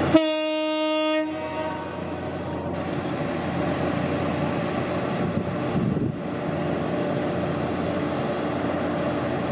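A train's horn gives one short blast of about a second, then a train runs on with a steady rumble.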